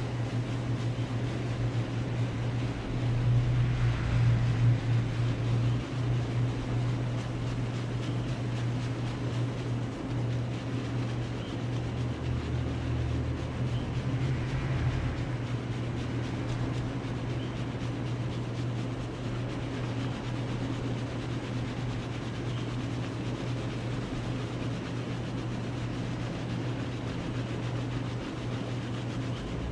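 A steady low electric hum, swelling a little about four seconds in and again around twelve to fifteen seconds in.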